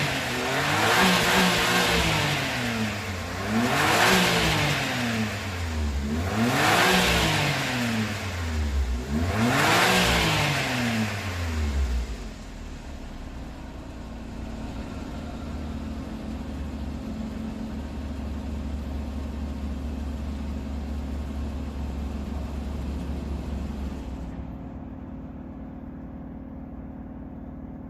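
Suzuki Wagon R MH21S's K6A three-cylinder turbo engine breathing through a Suzuki Sport aftermarket muffler: revved four times, about three seconds apart, each rev rising and falling, then dropping to a steady idle about twelve seconds in.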